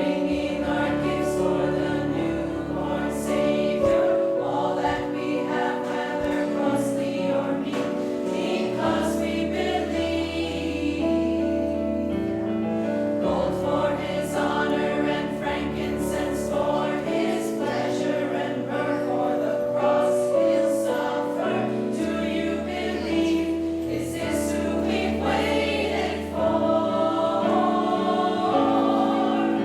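Choir singing in harmony, held chords over low sustained bass notes.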